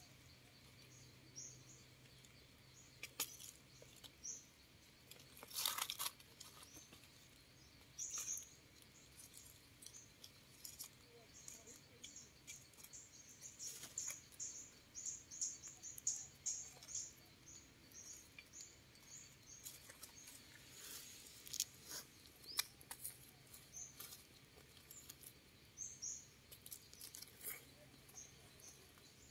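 Small birds chirping in the forest, high and quick, with a long run of rapid chirps through the middle. Now and then dry leaf litter rustles as mushrooms are picked by hand.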